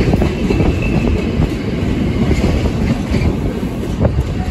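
Container freight train's wagons rolling past close by: a steady low rumble of wheels on rail, with irregular clatter as the wheels cross rail joints.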